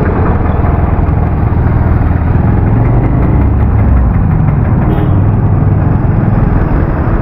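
Motorcycle engine running steadily while riding slowly, a low steady engine sound mixed with road noise.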